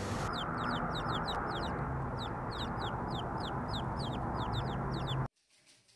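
Birds chirping: short high calls repeated about four times a second over a steady low hum. The sound cuts off suddenly near the end.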